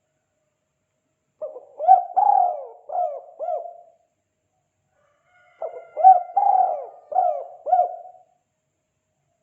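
Spotted dove (tekukur) giving its 'kuk 2' cooing call: two phrases of about five coos each, separated by a pause of a second and a half.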